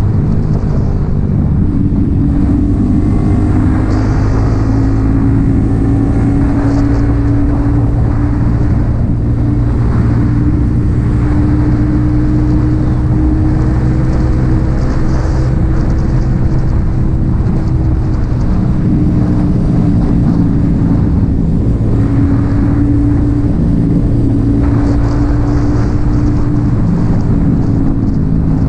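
Yamaha XSR 155's single-cylinder engine breathing through an aftermarket M4 exhaust, running steadily under way. Its pitch eases down about two-thirds of the way through and climbs again near the end.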